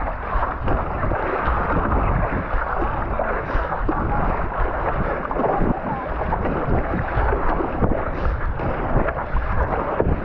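Wind rumbling on the microphone over steady splashing water on a stand-up paddleboard in rough sea.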